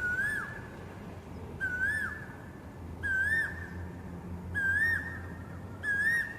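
Asian koel calling: a clear whistled note that rises in pitch, repeated five times about one and a half seconds apart. A low steady hum runs underneath.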